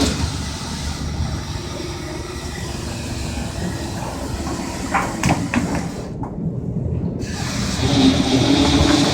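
Steady rumble and rushing noise on a boat's deck, with a few short knocks about five seconds in.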